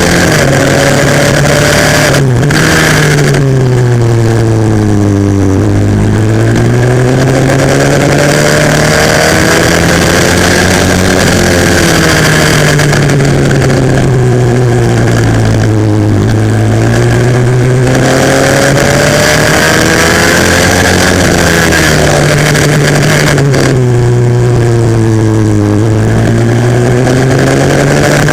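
A 140cc pit bike engine heard close up while racing: the revs drop sharply three times as it slows for corners and climb steadily back up as it accelerates out of them. The sound is very loud throughout.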